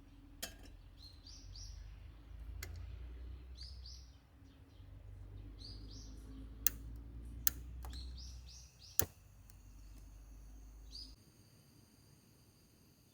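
Small birds chirping in short groups of quick falling notes, with a few sharp clicks in between over a low rumble. About eleven seconds in the rumble cuts off and a steady high-pitched whine of several tones remains.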